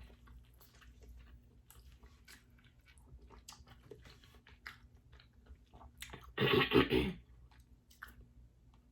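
A person chewing king crab meat close to the microphone: soft, wet chewing and small mouth clicks. About six and a half seconds in comes a louder mouth sound lasting under a second.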